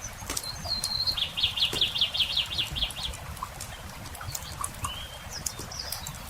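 A songbird sings a short song: a brief high note, then a fast trill of about a dozen repeated notes lasting a couple of seconds, with a few faint chirps near the end. A campfire crackles underneath.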